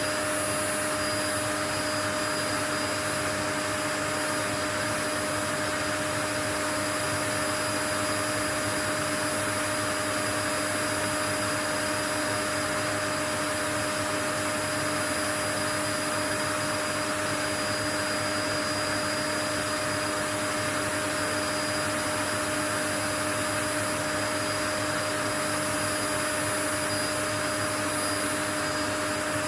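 Steady white noise: an even, unchanging hiss with a few faint steady tones running through it, like a running appliance.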